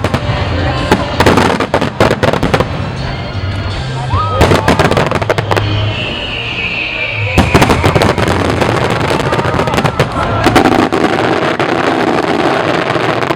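Wide starmine fireworks barrage: rapid, overlapping shell bursts with continuous crackle, and a falling whistle about six seconds in.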